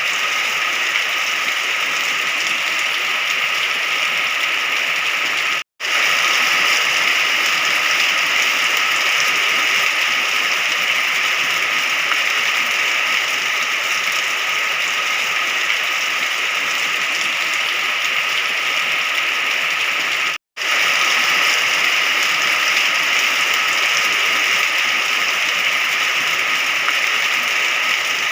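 Steady heavy rain, an even hiss of falling water, that cuts out for an instant twice, once about six seconds in and again about twenty seconds in.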